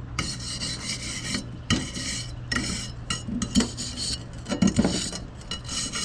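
Repeated scraping and rubbing with scattered clinks and knocks of hard objects, over a faint low hum.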